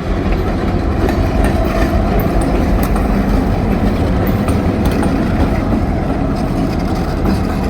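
EMD GP38-2 diesel locomotive moving along the track close by, its engine running under the wheel noise on the rails, with scattered short clicks and squeaks.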